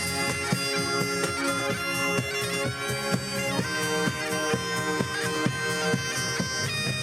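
Bagpipes playing a lively tune over their steady drones, with drums beating along in a ceilidh band.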